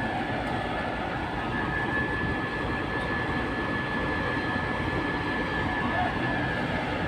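Steady engine drone with a thin high whine held on one note.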